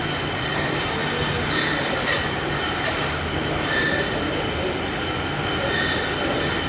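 Automatic shrink-wrap machine running: a steady mechanical noise with short high hissing squeals that recur every two seconds or so.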